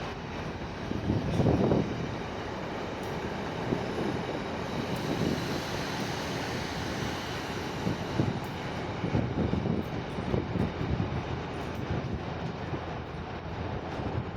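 A Class 158 diesel multiple unit running through the station, its diesel engine and wheels making a steady rumble with uneven low thumps.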